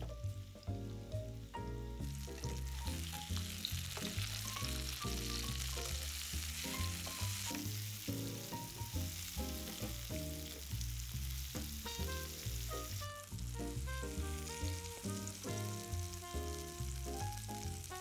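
Food sizzling as it fries in hot oil in a pan. The sizzle grows louder about two seconds in and eases off after about thirteen seconds, over a melodic instrumental music track with a steady bass.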